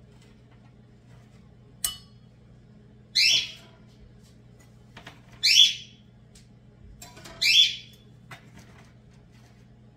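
A bird calling: three short, loud, high calls about two seconds apart, over a steady low hum.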